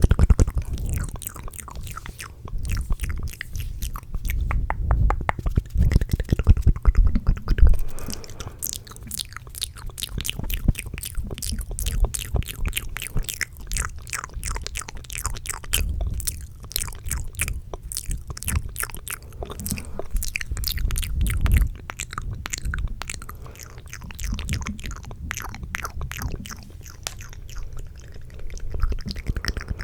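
Close-miked ASMR mouth sounds: a fast, dense run of wet clicks and smacks, with low thumps underneath.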